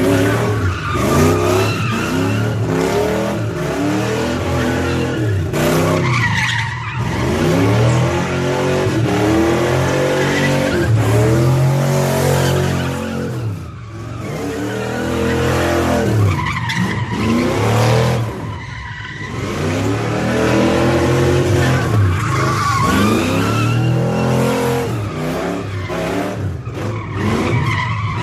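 Car doing burnouts and donuts: the engine revs up and down over and over, its pitch rising and falling every couple of seconds, with continuous tyre squeal and skidding.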